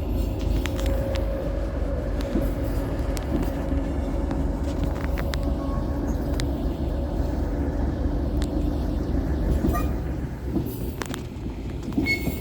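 Train running along the track with a steady low rumble and a faint engine drone, easing off a little near the end, with a few light clicks.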